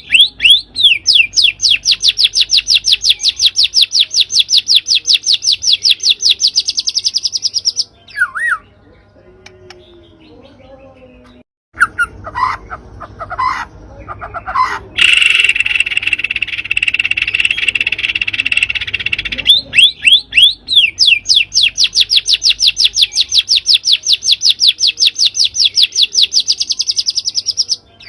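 Recorded bird song played as a bait track to set off a white-rumped shama: a long, fast, rattling trill of rapidly repeated high notes, a pause broken by a few short scattered notes, then the same trill phrase repeated.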